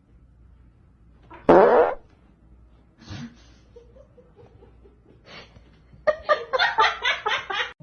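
A loud, brief fart-like sound about one and a half seconds in, rising in pitch. Near the end comes a quick run of short pitched pulses, about four or five a second.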